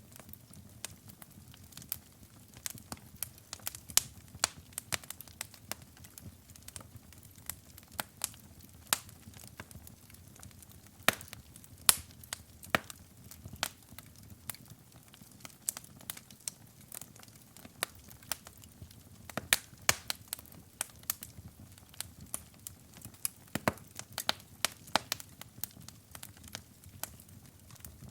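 Wood fire in a fireplace crackling steadily, with frequent irregular pops and snaps over a low rumble of flames.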